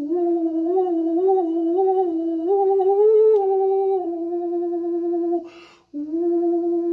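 A single voice humming a slow, wandering tone that steps gently up and down in pitch, broken once by a quick breath about five and a half seconds in.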